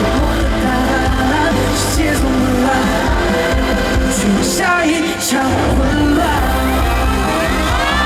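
Live pop-rock band music at a concert, loud and steady with heavy bass, with singing over it.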